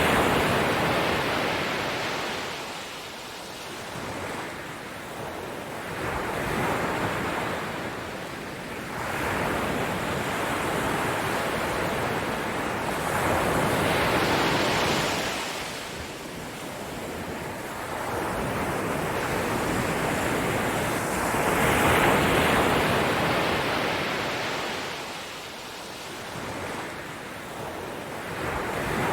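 Ocean waves breaking and washing up a shore, each surge swelling and fading about every seven seconds.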